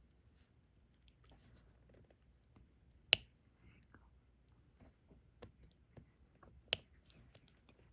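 Small, scattered clicks and taps of a diamond-painting drill pen picking up resin drills and pressing them onto the sticky canvas, with two sharper clicks, about three seconds in and again near the end.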